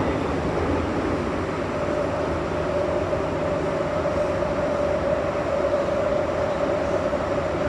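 MTR M-Train electric metro train running along the track, a steady rumble with a steady whine that comes in about two seconds in and holds.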